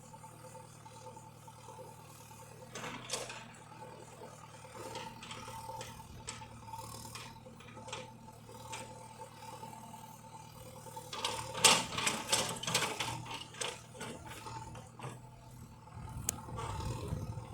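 Farm tractor running with mechanical rattling and clicking, and a louder burst of clattering about eleven seconds in that lasts a couple of seconds.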